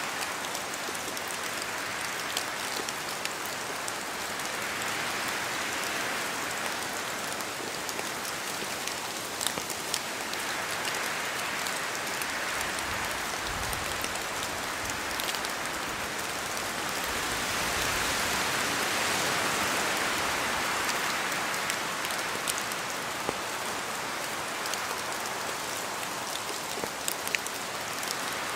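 Steady rain falling in a spruce forest, with scattered sharper drops falling from the trees and wind swelling and easing through the branches every several seconds.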